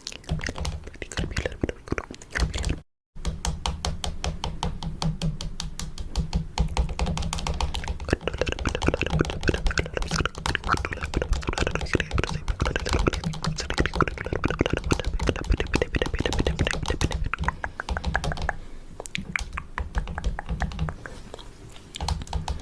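Fingernails tapping rapidly and continuously on a camera, close to the microphone, briefly cut off by a dropout about three seconds in.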